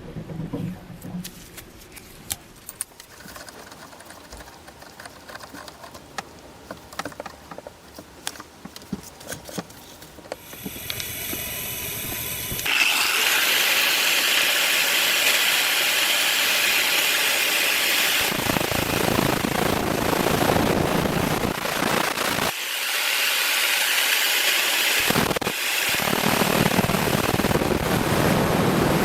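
Light clicks and handling knocks, then about ten seconds in an electric power tool winds up and runs loud and steady with a high grinding hiss. Its low end drops out briefly near the end.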